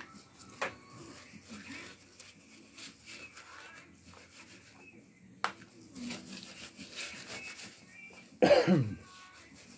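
Faint clicks and rustling, then near the end a single loud cough from a person, falling in pitch.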